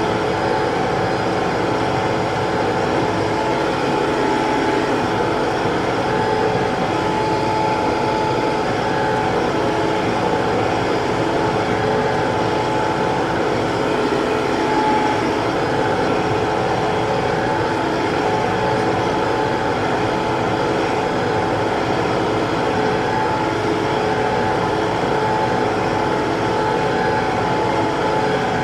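TYM T654 tractor's diesel engine running steadily at working speed.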